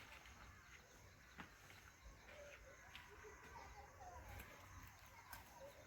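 Near silence with faint, scattered chirps of small birds and a few light clicks.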